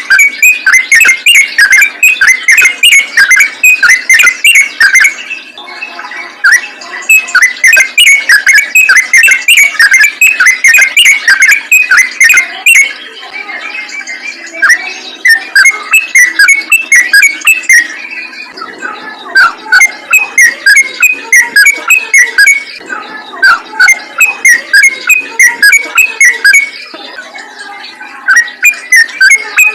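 Yellow-vented bulbul singing in long runs of rapid, loud, repeated notes, broken by brief lulls of softer chatter every several seconds.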